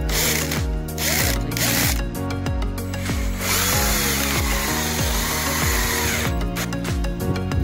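A handheld power tool runs in three short bursts and then in one longer run of about three seconds, over background music with a steady beat.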